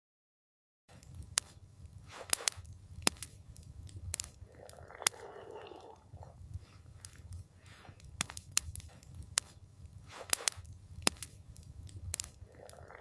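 Campfire crackling, with irregular sharp pops and snaps of burning wood over a low wind rumble. The sound cuts in abruptly about a second in, after total silence.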